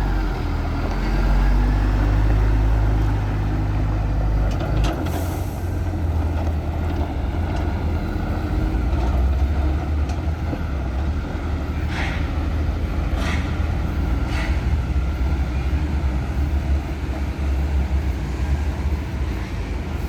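Diesel engine of a Sany concrete mixer truck running steadily, with a brief hiss about five seconds in and three short bursts of noise roughly a second apart near twelve to fifteen seconds.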